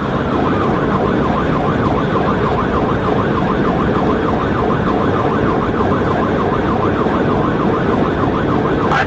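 Police cruiser siren in a fast yelp, its pitch rising and falling about three times a second, over steady engine and road noise from the cruiser at highway speed.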